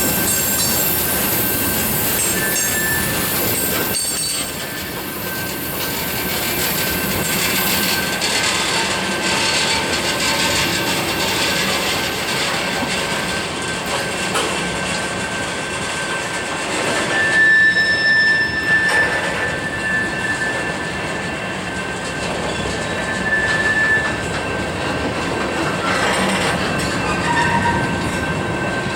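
Freight train cars rolling past with a steady rumble and clatter, their wheels squealing on the connector track, the high squeal tones strongest from about the middle of the passage.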